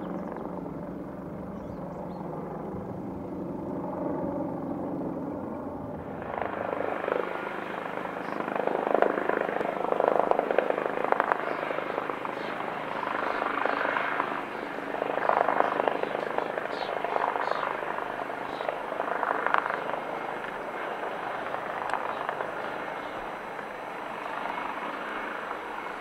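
AgustaWestland AW139 twin-turbine helicopter running, first as a steady low hum. About six seconds in the sound changes abruptly to a louder rotor noise that swells and fades repeatedly.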